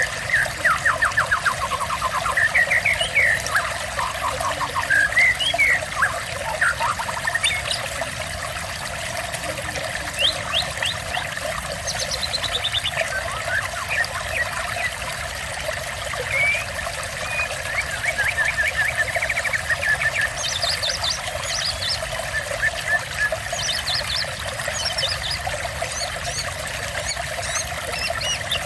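Running water trickling steadily, with songbirds singing over it in short, quick trilled phrases and chirps repeated throughout.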